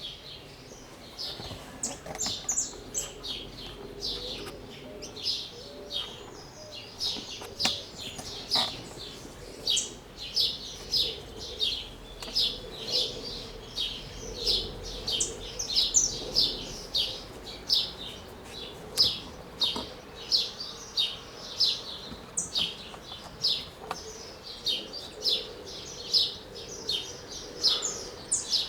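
Birds chirping: a long run of short, high chirps, one or two a second, over a faint steady low hum.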